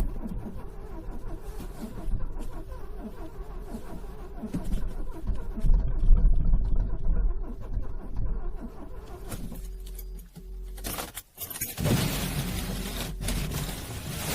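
Car engine being cranked over in freezing cold, a dense low churning with a steady tone running under it. The sound breaks off briefly about eleven seconds in, then resumes with more hiss.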